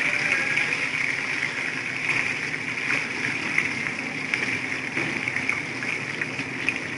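Chicken lollipops deep-frying in hot oil: a steady sizzle full of small crackles and pops.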